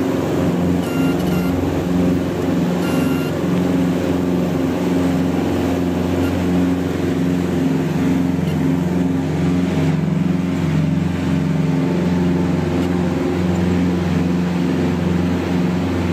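Piston engines of a twin-engine light aircraft running steadily at cruise, heard as a loud, even drone with a slow pulsing throb.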